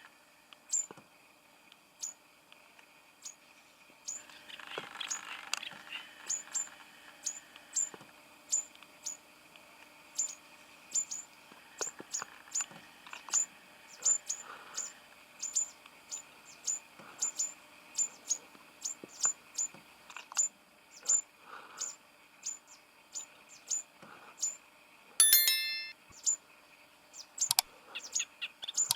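Birds calling: short, sharp, high-pitched chirps repeated about once or twice a second, with a brief ringing, bell-like trill near the end.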